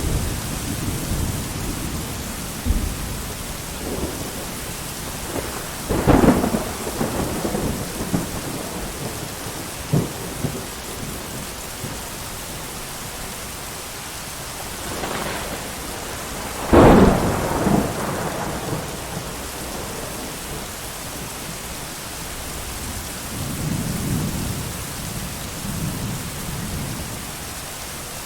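Thunderstorm: steady heavy rain with thunder. Sharp claps come about six seconds in and, loudest, about seventeen seconds in, each rolling off into rumble, with lower rumbles at the start and near the end.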